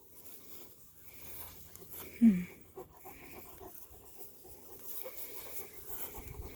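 Cane Corso dogs panting, with one short, low grunt falling in pitch about two seconds in.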